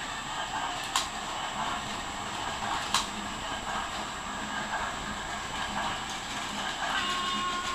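Steady running noise of a train, with two sharp clicks about two seconds apart and a brief high tone near the end.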